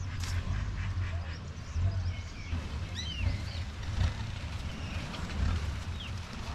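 Birds calling in short chirps that rise and fall in pitch, over a steady low rumble.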